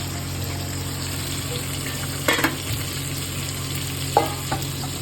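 Fish frying in hot oil, a steady sizzle over a low hum, with two short knocks about two and four seconds in.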